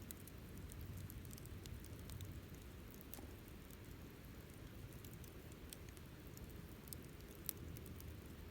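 Wood campfire crackling: scattered small sharp pops and snaps, with one louder pop about seven and a half seconds in, over a low steady rumble.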